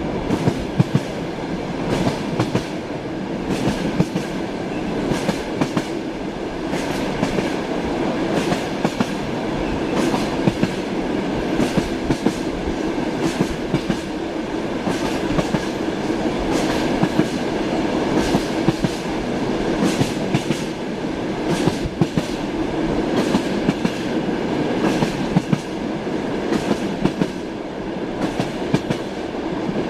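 Inside a moving train carriage: a steady rumble and hiss of the running train, with the wheels clicking over the rail joints again and again, the clickety-clack of a train ride.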